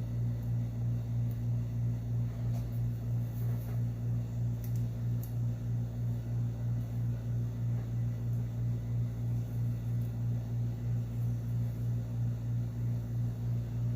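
A steady low mechanical hum that pulses evenly about twice a second.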